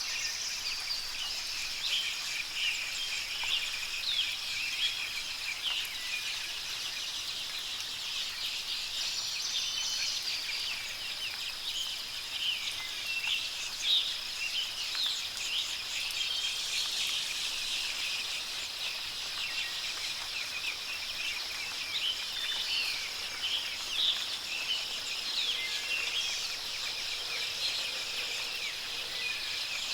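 Songbirds chirping and twittering in many quick, scattered calls over a steady high background hiss.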